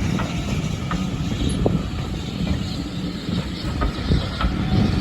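Heritage railway train running on the rails: a steady, heavy rumble with scattered short clicks and squeaks.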